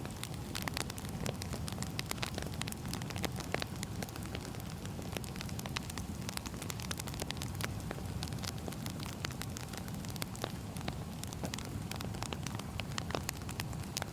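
Wood fire burning: a steady low rumble of flames with frequent, irregular sharp crackles and pops from the burning logs.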